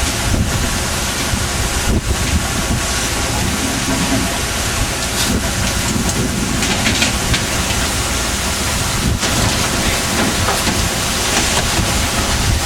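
Steady wind, sea and engine noise aboard a fishing boat under way, loud and unbroken, with wind buffeting the microphone.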